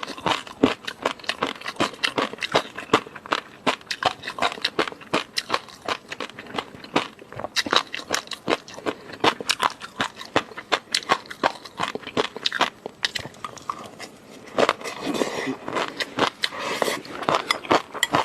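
Close-miked eating: a person chewing food, with a rapid, irregular run of wet mouth clicks and smacks and a longer noisy stretch about fifteen seconds in.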